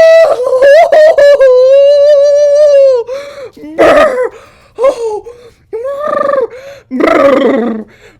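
A high, excited voice making wordless exclamations: one long held, wavering call about a second and a half in, then a string of shorter cries.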